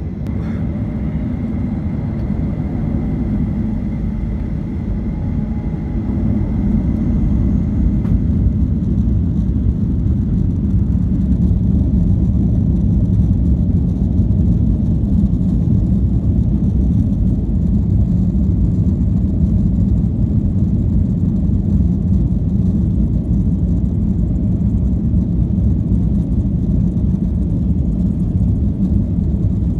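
Jet airliner heard from inside the cabin during takeoff: a steady low rumble of engines and runway that grows louder about six to eight seconds in, then holds at full power.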